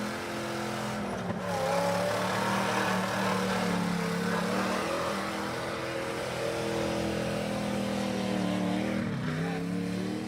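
Off-road mud-bog truck engine held at high revs, its pitch wavering as the throttle changes. About nine seconds in it dips sharply and picks back up.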